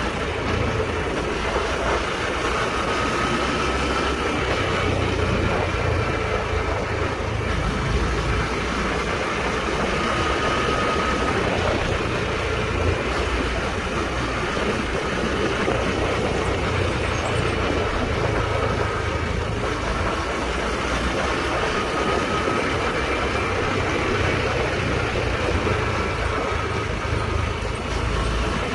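Honda Trail 125's single-cylinder engine running steadily on the move, under a steady rush of wind and road noise.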